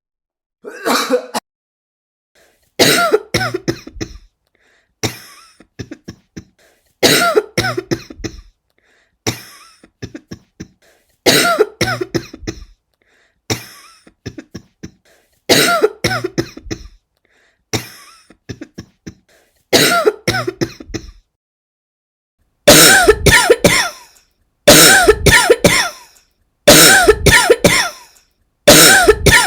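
A person coughing repeatedly. At first it is one or two coughs about every two seconds; from about 23 seconds in come louder fits of several coughs in quick succession.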